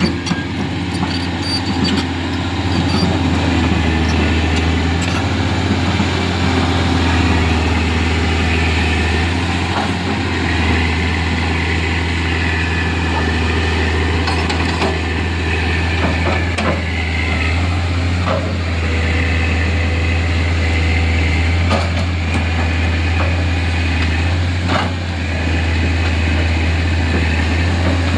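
Hydraulic excavator's diesel engine running steadily. A whine comes and goes and the engine swells every few seconds as the machine works, with scattered knocks.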